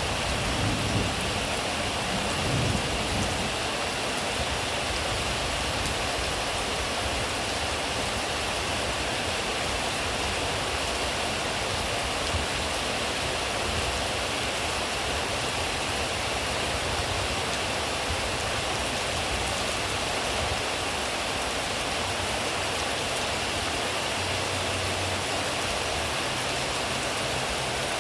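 Steady rain falling, an even, unbroken hiss, with a brief low rumble in the first few seconds.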